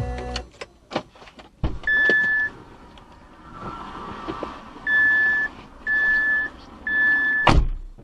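An in-car electronic beeper sounds four short high beeps, the last three about a second apart. Clicks are heard before them, and a sharp knock comes right after the last beep.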